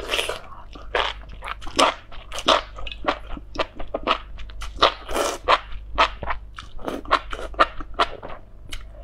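Close-miked eating of spicy enoki mushrooms: biting into a bundle and chewing it, with many quick, irregular wet crunches, two to four a second.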